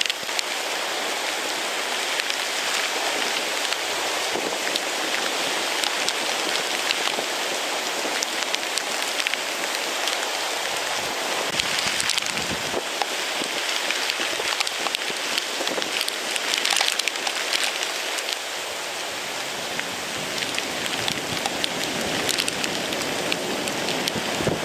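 Steady heavy rain pelting surfaces, driven by the gusty wind of a hurricane's outer rain band, a dense continuous hiss with a constant patter.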